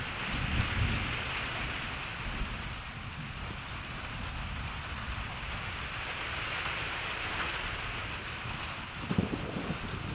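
Steady rain falling in an even hiss, with a low rumble of distant thunder about a second in. Near the end, low irregular buffeting, like wind gusting on the microphone, comes in under the rain.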